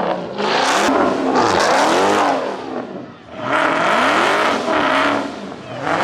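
Car engine revving hard in repeated blips, its pitch rising and falling each time. Through the middle it is held high and steady for over a second, then drops and rises again near the end.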